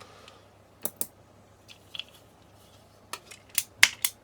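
Sharp, irregular clicks and taps of small hard parts being handled, a few close together near the end, typical of small magnets and plastic casing pieces clicking against each other and a tool. A faint steady low hum lies underneath.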